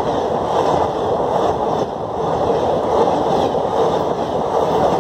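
Passenger coaches of a train rolling past at close range: a loud, steady rumble of wheels on the rails.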